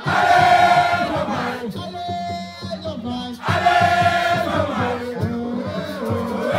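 Crowd chanting a sung refrain in unison, in two loud phrases about three and a half seconds apart.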